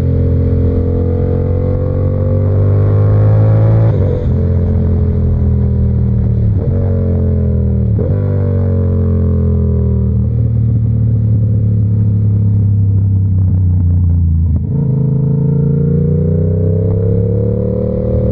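Yamaha R7's parallel-twin engine accelerating hard, upshifting through the gears with a sharp pitch drop at each change about four, six and a half and eight seconds in. The engine then eases off to a steady lower note before pulling again after another shift near the end.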